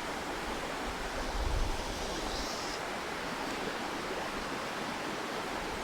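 Steady rush of a flowing river. A brief low bump sounds about a second and a half in.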